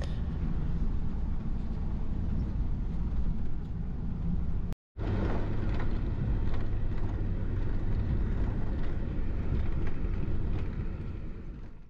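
A vehicle running with a steady low rumble, cut off abruptly for a moment about five seconds in, then fading out at the end.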